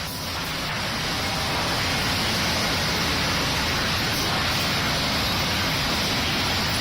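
Steady, even din of sawmill machinery, swelling over the first couple of seconds and then holding level, with no distinct saw whine or knocks standing out.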